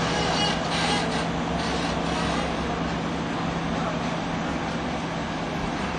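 Passenger train rolling slowly past along the platform, with a steady diesel engine drone and wheel rumble that ease off near the end.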